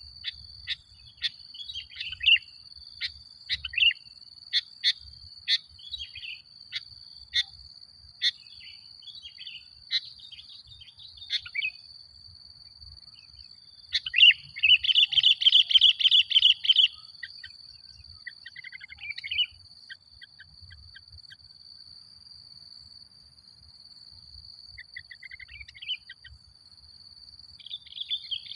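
Male sooty-headed bulbul singing: a run of short sharp chirps, then about halfway through a loud, fast chattering burst lasting a few seconds, followed by a few shorter phrases. A steady high-pitched whine runs underneath.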